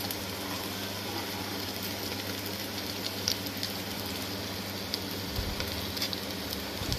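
Aloo tikki (potato patties) shallow-frying in hot oil on a tawa, a steady sizzle, with a few light clicks as a turner touches the pan while the patties are flipped.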